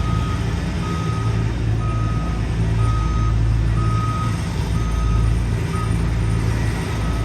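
Reverse warning beeper on a piece of diesel road-paving equipment, one steady-pitched beep about once a second, over the low running of its diesel engine; the beeps stop near the end.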